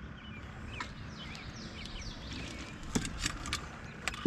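A bird chirping in quick, sliding notes for the first couple of seconds, then several sharp clicks or knocks, over a steady low rumble.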